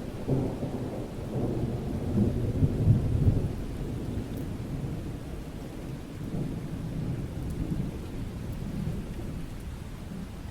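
Thunder rolling over steady rain: a low rumble swells right after the start, peaks about three seconds in, then trails off into a softer rumble under the rain's hiss.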